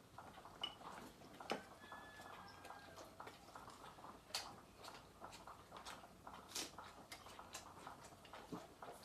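Faint, scattered clinks and taps of tableware at a meal table, with a few sharper knocks among them.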